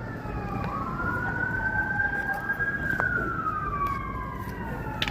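Emergency vehicle siren wailing: its pitch slides slowly down over a couple of seconds, then jumps quickly back up, twice, with a fainter second wail overlapping. A steady low rumble of vehicle noise lies beneath.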